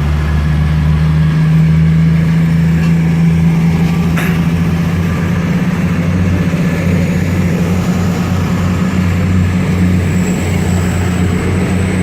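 Class 222 Meridian diesel multiple unit's underfloor Cummins diesel engines running with a steady low hum at the platform, with a single sharp click about four seconds in.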